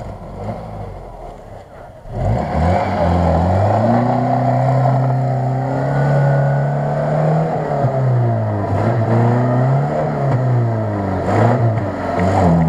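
Ford Maverick 4x4's engine, running low at first, revs up sharply about two seconds in, then rises and falls in pitch again and again under load as the SUV strains to climb a steep, brushy bank.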